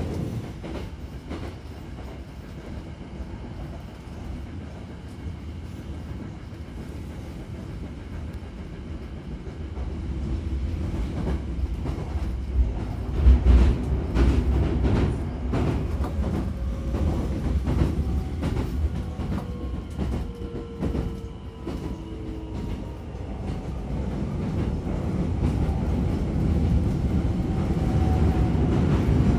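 Hankyu Railway Kyoto Line electric train running, heard from inside the carriage: a steady low rumble with a clatter of wheel clicks over rail joints about halfway through. Faint whining tones slide in pitch later on, and the running noise grows louder toward the end.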